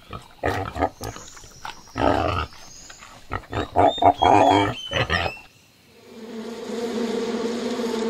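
Pigs grunting in a quick series of short grunts, a few with high squeaks, for about five seconds. After a brief gap, a steady buzz of honeybees swarming on a hive frame sets in.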